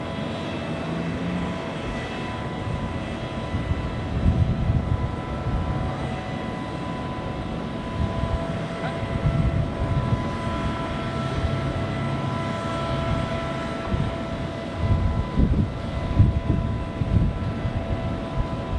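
Private jet's engines whining steadily on the tarmac, several high tones held throughout, over an uneven low rumble that swells and fades.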